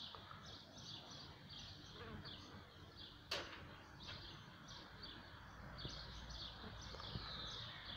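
Faint background birdsong: small birds chirping in quick repeated phrases, with one sharp click a little over three seconds in.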